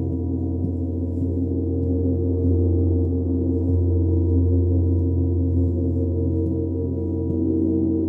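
Sound-bath instruments ringing in a sustained, deep drone: a strong low hum under many layered overtones, swelling and easing slightly without a break.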